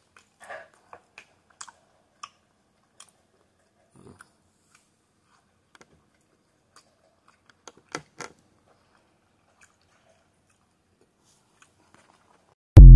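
A person chewing food softly, with scattered small clicks and mouth sounds. Near the end, the loud TikTok end-screen sound effect cuts in suddenly.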